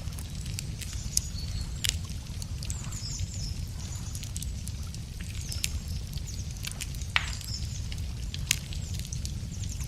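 Wood fire crackling, with scattered sharp pops over a steady low rumble. Small birds twitter high in the background.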